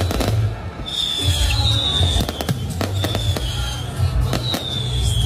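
Fireworks display: a dense run of bangs and crackling from aerial shells bursting overhead. Several high whistles sound through it, each falling slightly in pitch, over a throbbing low rumble.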